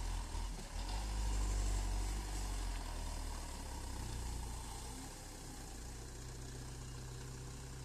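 Vehicle engine running with a low, steady drone, loudest about a second in and then settling a little lower.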